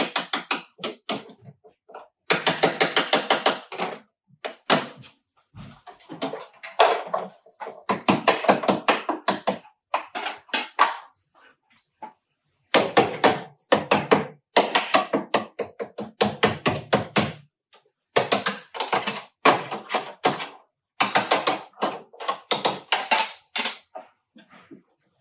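Rapid hammer blows on metal in bursts of one to two seconds, about six strikes a second, with short pauses between bursts.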